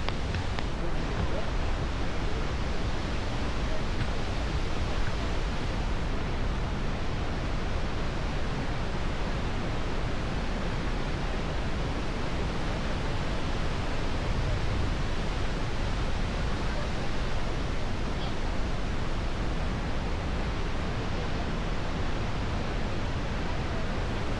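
Steady rushing of a large waterfall, an even wash of white water.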